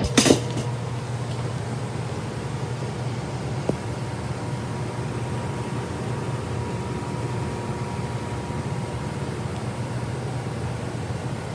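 Steady low hum of a furnace's blower running, with a faint steady whine above it. A brief loud rustle just after the start and a small click about four seconds in.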